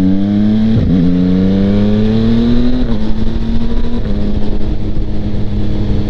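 2025 Yamaha MT-09's 890 cc inline-three engine through a Kelpi Flanker exhaust with the baffle in, accelerating: the revs climb, dip at a gear change a little under a second in, and climb again. About three seconds in the pitch steps down and the engine settles to a steady cruise, stepping down once more about a second later, with wind rushing on a mic inside the helmet.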